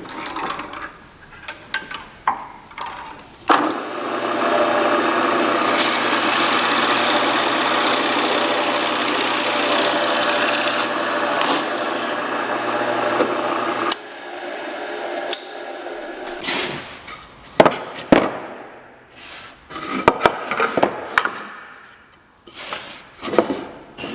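A power tool running steadily on wood for about ten seconds, starting and stopping abruptly. Before and after it come scattered knocks and taps of wood pieces being handled.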